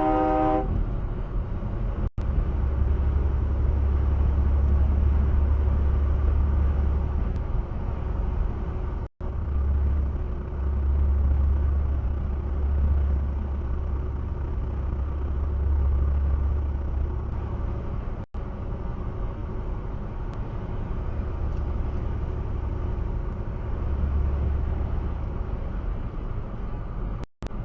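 Steady engine and road rumble of a moving car, heard through a dashcam. A horn sounds briefly at the very start, and the sound cuts out for an instant three times.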